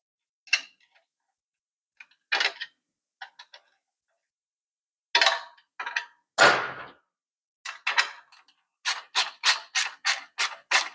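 Metal clicks and knocks of a hand tool tightening a stainless steel hose clamp, ending in a steady run of sharp clicks about three a second.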